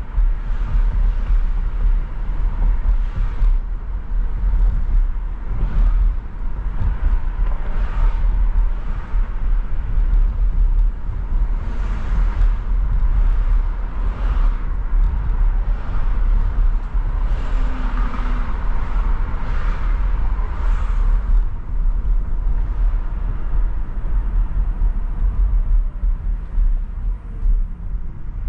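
Car driving through city streets: a steady low rumble of road and engine noise, with the hiss of passing traffic rising and falling.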